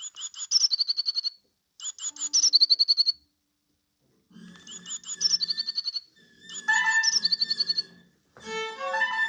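Bird song phrase repeated about every two seconds, a quick run of falling chirps ending in a fast trill. From about four seconds in, low instrument notes and a few held higher tones sound beneath it.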